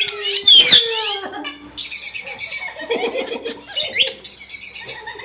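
Pet parrot calling: a loud, sweeping screech just under a second in, then two harsh squawks of about a second each.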